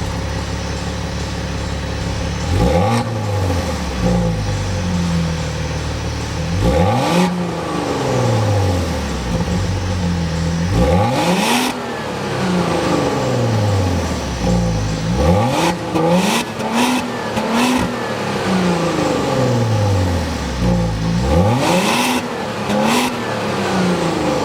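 A sports car's engine revving hard again and again. Each time the note sweeps sharply up, then falls back in steps, about five times.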